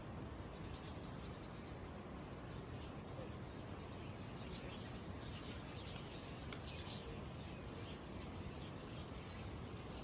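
Caged songbirds chirping in many short, scattered calls over a steady, high-pitched insect trill.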